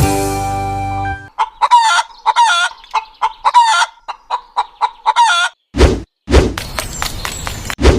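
A chicken clucking, a quick run of short repeated calls lasting about four seconds, after the last held notes of a music track. Then two sharp thumps and a steady outdoor hiss with scattered clicks.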